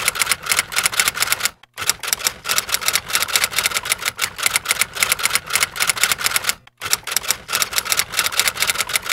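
A fast, even run of sharp mechanical clicks, a clatter that breaks off briefly twice, about one and a half seconds and six and a half seconds in.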